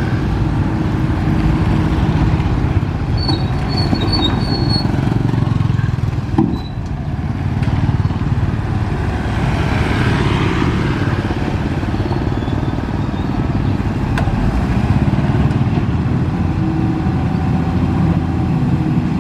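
Heavy diesel engine of earthmoving machinery running steadily with a low, constant rumble, and a brief knock about six and a half seconds in.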